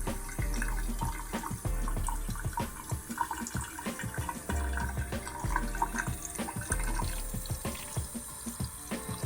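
Water running from a tap into a garment steamer's water tank, splashing as it fills.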